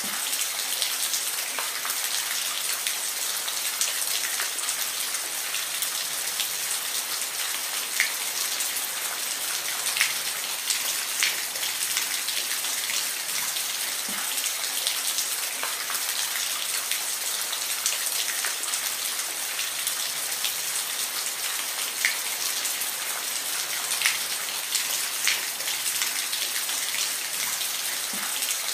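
Steady rain falling: a dense high hiss with many individual drops ticking sharply on a surface.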